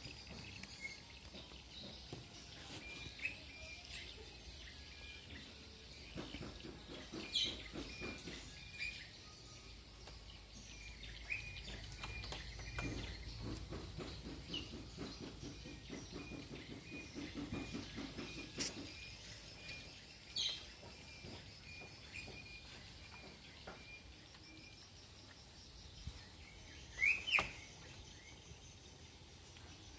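Small birds chirping: a run of short, evenly repeated high notes and a few sharp rising calls, the loudest two close together near the end. A low rumbling noise runs for several seconds in the middle.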